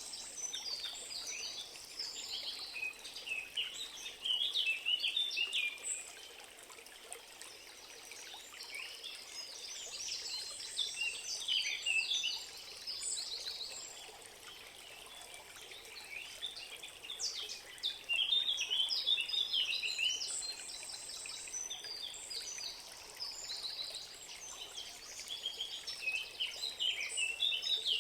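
Birds singing in bursts of rapid high chirps and trills, with short lulls between phrases, over a faint steady rush of flowing water.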